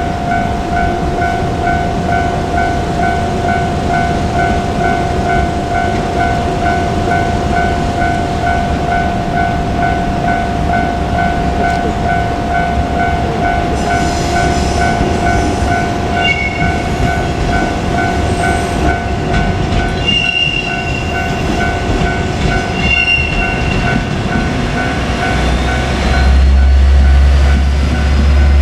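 Level crossing warning bell ringing in a steady repeating pattern as a two-car JR Kyushu KiHa 47 diesel railcar approaches and passes. Wheel squeal joins about halfway through, and the diesel engine rumble is loudest near the end.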